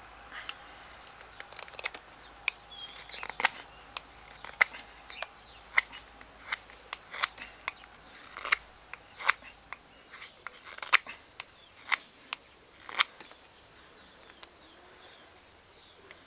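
Carving knife slicing shavings from a seasoned alder spoon blank: a string of sharp, irregular snicks, about one or two a second, that stop about thirteen seconds in.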